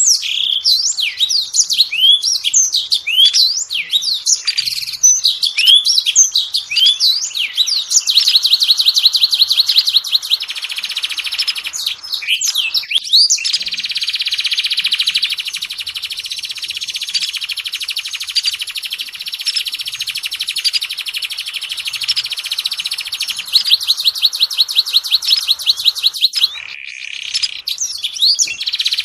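Oriental magpie-robin (kacer) song used as a lure track: varied sweeping whistles, then long runs of rapid, repeated notes and a fast, dense chatter, with a brief return to varied whistles near the end.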